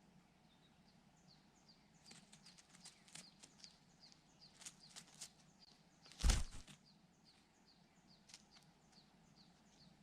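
A bird calling in short, high, falling chirps, about three a second, with a scatter of sharp clicks from about two to five seconds in and one loud thump about six seconds in.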